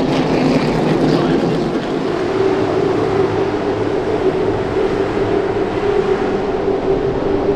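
Race car engines running steadily, a continuous drone that wavers slightly in pitch.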